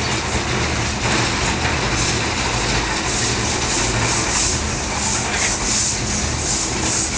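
Snowdon Mountain Railway steam rack locomotive Padarn arriving, with a steady low rumble. From about halfway through it gives a rhythmic run of hissing steam beats, roughly three a second.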